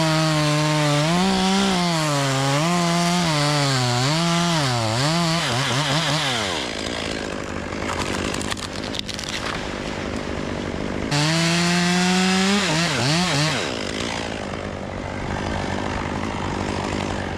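Two-stroke chainsaw cutting into a limb, its engine note rising and falling as it is throttled and loaded in the cut. About six and a half seconds in the engine note drops away, it revs high again for a couple of seconds near eleven seconds, then falls off.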